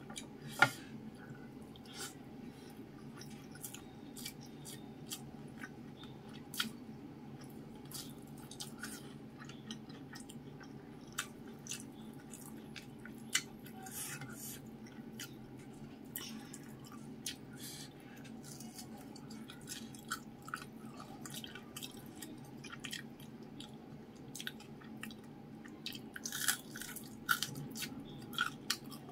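Close-up eating sounds: chewing of crispy fried fish and rice, with many small crunches and mouth clicks, a cluster of louder crunches near the end. A steady low hum runs underneath.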